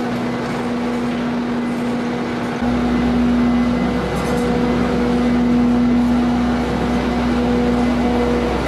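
Farm machinery engine running steadily with a constant hum. About two and a half seconds in, the sound suddenly gets louder and deeper.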